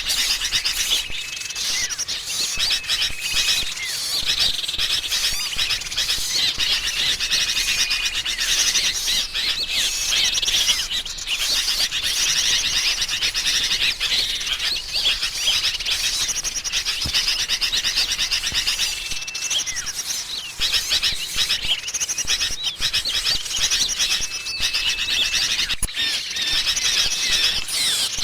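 Bird-lure recording of agitated sooty-headed bulbuls mixed with small birds such as tailorbirds and prinias: a dense, continuous chatter of high chirps and trills, with short level whistles coming back every few seconds.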